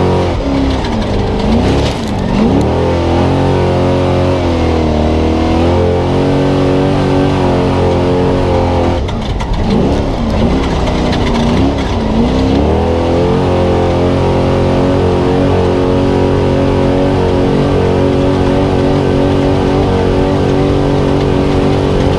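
Spec Trophy Truck V8 heard from onboard at race pace, under steady road and wind noise. The revs drop and climb again several times in the first half as the driver lifts and gets back on the throttle. In the second half the engine holds a steady high speed.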